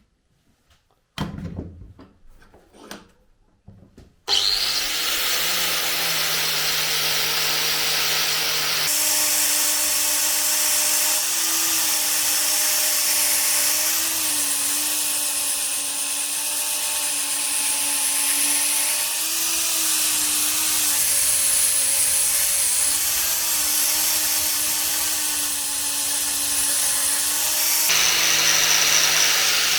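A few knocks and handling sounds, then an electric power tool's motor starts about four seconds in and runs steadily. Its pitch dips briefly now and then as it is loaded against the work.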